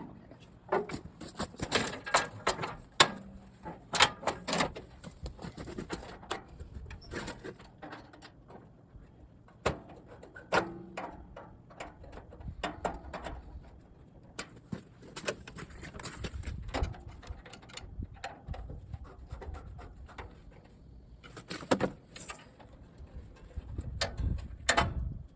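Irregular knocks, clicks and clatter of hands working on a lawn tractor, with a low rumble about two-thirds of the way in and again near the end.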